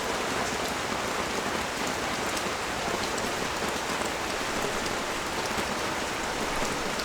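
Steady heavy rain falling on a street and balcony, an even hiss with scattered drop ticks.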